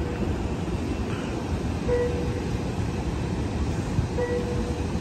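Steady low rumble of a stopped Amtrak Capital Corridor passenger train, with a short electronic beep repeating about every two seconds.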